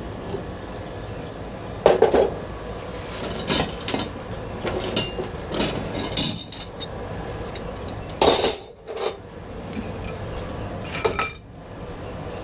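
Pieces of scrap metal clanking and clinking as they are handled and set down, in a series of separate knocks at irregular intervals.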